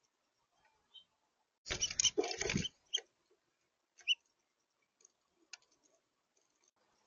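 A small bird scrabbling and pecking at a seed feeder: a dense rustling, scratching burst of about a second, then a couple of sharp clicks.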